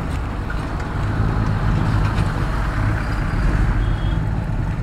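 Motorcycle engine running steadily while riding on a highway, with road and wind noise.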